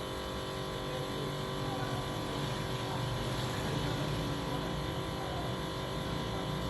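Steady machine hum with several fixed tones over a haze of noise.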